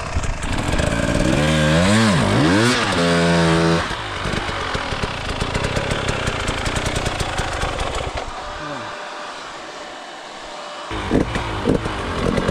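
Motocross dirt bike engine revving hard, its pitch climbing and falling sharply a few times in the first seconds. It then runs steadier and quieter, with a few short knocks, before revving up again near the end.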